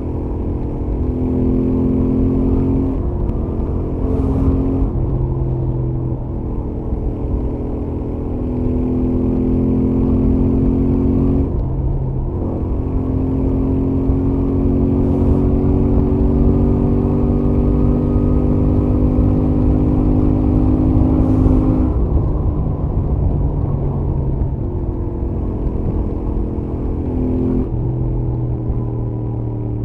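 Royal Enfield Interceptor 650's stock-exhaust parallel-twin engine running at highway speed, heard from the rider's helmet. Its pitch climbs slowly over long stretches and drops briefly several times as the revs change.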